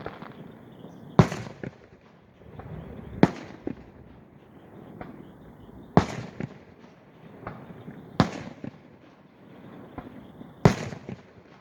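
Aerial fireworks going off: five loud booms about every two seconds, each followed by smaller pops and crackling.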